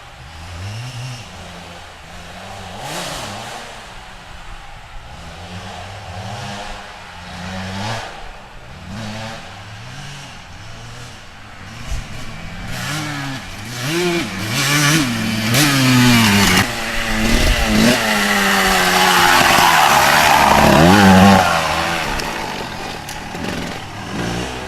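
Motorcycle engine revving up and down again and again, getting louder about halfway through, loudest near the end, then easing off.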